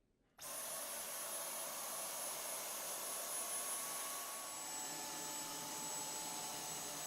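Dyson Cyclone V10 cordless stick vacuum switching on abruptly and running with a steady rush of air and a high whine. About four and a half seconds in, the whine steps down slightly in pitch.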